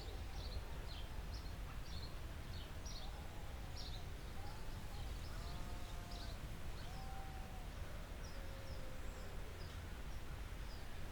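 Forest ambience: small birds chirping with short high notes again and again, and a lower bird call repeated several times in the middle, over a steady low rumble.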